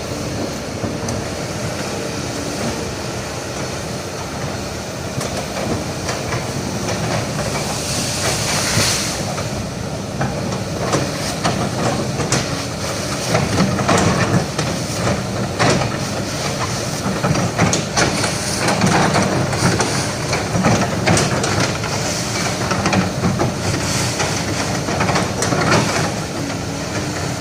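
Hydraulic excavator working: its diesel engine running steadily under load, with repeated clanks and knocks and a burst of hydraulic hiss about a third of the way through.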